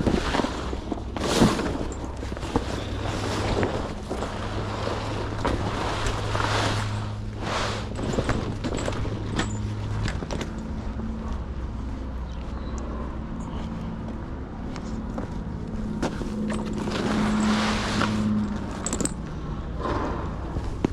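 Flatbed truck tarp being dragged and folded, rustling and scraping in repeated swells, over the steady low hum of an engine running.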